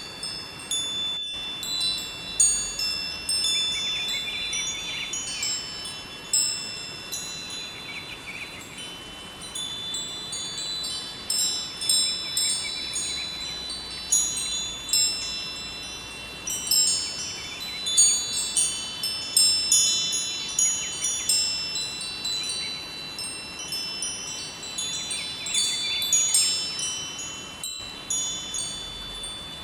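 Wind chimes ringing continuously, many high tones struck at irregular moments and overlapping as they decay. Under them is the steady rush of a flowing river.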